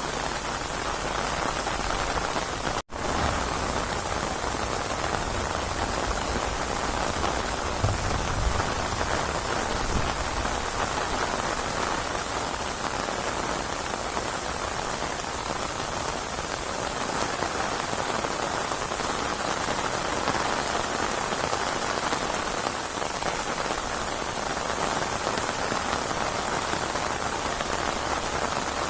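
Steady rain falling in an even hiss. The sound cuts out completely for an instant about three seconds in.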